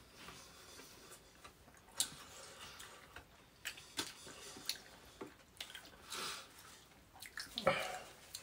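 Quiet chewing and scattered wet mouth clicks from people eating, with a short hum-like vocal sound near the end.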